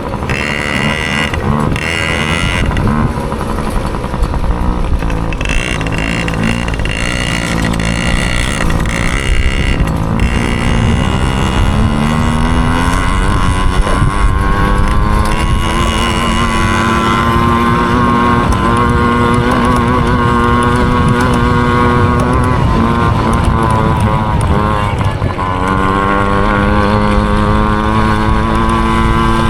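Small dirt bike engine at race pace, its pitch climbing through the revs and holding high. About 25 seconds in it drops off sharply, as on a shift or a closed throttle, then comes back on and climbs again.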